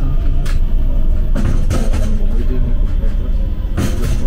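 Passenger train running: a steady low rumble with short rushing surges about half a second in, around a second and a half in, and near the end.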